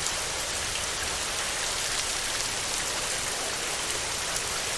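Steady heavy rain drumming on a metal roof, a dense even hiss of many drops.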